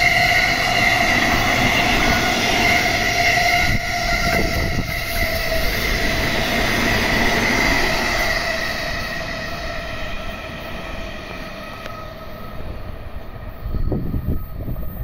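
JR E217 series commuter electric multiple unit passing at speed: wheels rumbling on the rails with a steady whine above. The sound fades as the train draws away over the second half, with a few low thumps near the end.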